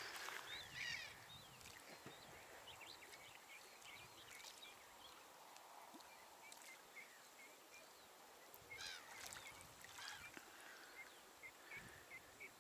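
Faint, scattered calls of distant birds, possibly waterfowl, over quiet open-air ambience, with a few calls near the start and a denser group about nine seconds in.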